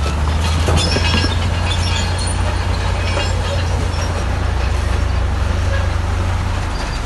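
Heavy diesel earthmoving machine running with a steady low drone, with crackling and scraping of stone and metal during the first few seconds.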